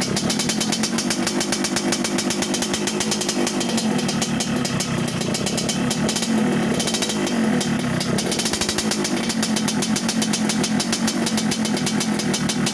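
Yamaha RX-King's single-cylinder two-stroke engine running steadily through an underbelly aftermarket exhaust, with a fast, even train of exhaust pulses.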